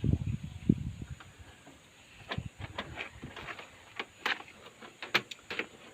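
Handling noise from work on the washing machine's drain parts: low thumps and rustling at first, then a scatter of light clicks and knocks.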